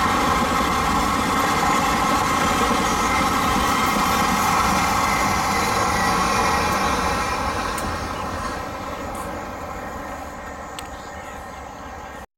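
Express train's passenger coaches running over the rails at speed, a steady rumble with a ringing rail hum, fading away from about seven seconds in as the train recedes.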